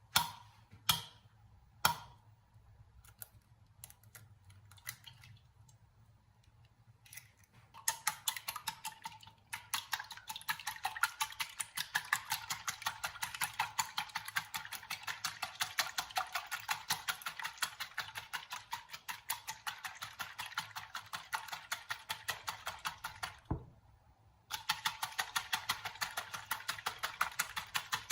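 Rapid typing on a keyboard: a few separate key clicks at first, then long runs of fast clicking with a short break near the end.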